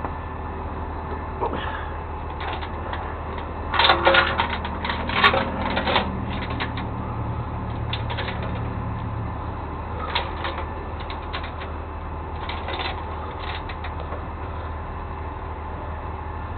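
A vehicle engine idling with a steady low hum, with bursts of rapid clicking and rattling, loudest about four to six seconds in and again around ten seconds.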